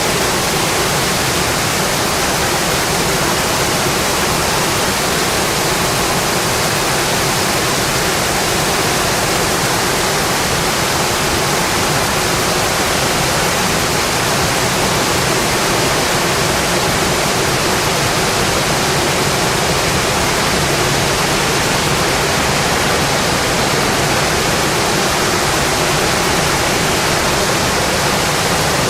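Steady rain falling on a windowpane, an even, unbroken hiss with no let-up.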